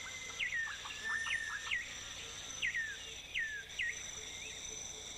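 Rainforest ambience: a steady, high insect drone, over which a bird repeats short whistled calls, each dropping sharply in pitch, about eight times.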